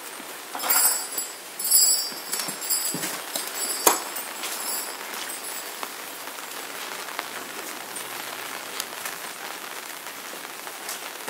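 Steady rain falling outdoors, an even patter. In the first three seconds a few short rattles sound over it, and about four seconds in there is one sharp knock.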